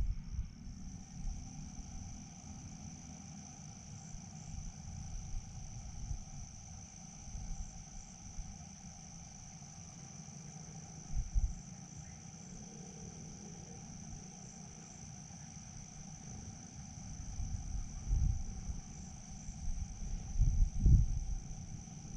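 Crickets chirring in a steady high drone, with occasional low rumbling thumps on the microphone that are loudest near the end.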